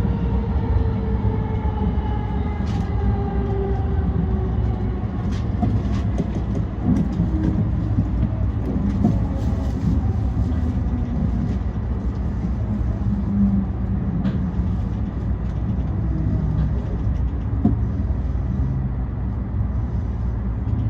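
E235-1000 series electric commuter train running, with a steady low rumble of wheels on rail. Over the first several seconds its traction-motor whine falls in pitch as the train slows. Scattered short clicks come from the track.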